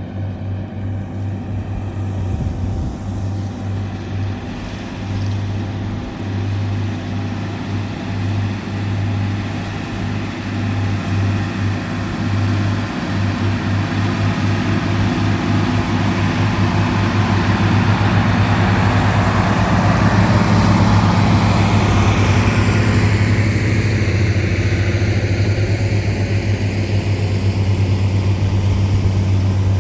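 Tractor diesel engine running steadily, growing louder about halfway through and staying loud as it comes close.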